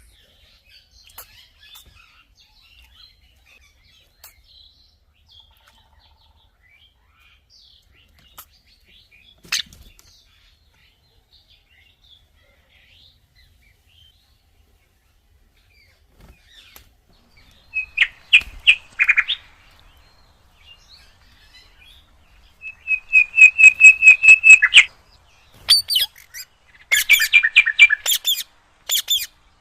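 Indian ringneck parrots calling: faint scattered chirps at first, then, past the middle, bursts of loud, sharp calls repeated rapidly, several a second.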